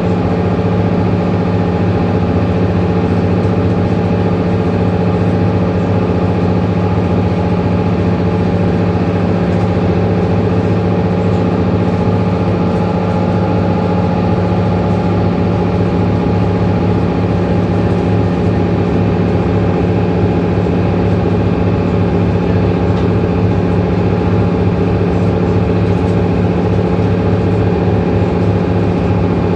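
Mercedes-Benz Citaro C2 city bus engine running at a steady, unchanging speed, a constant drone with no revving up or down.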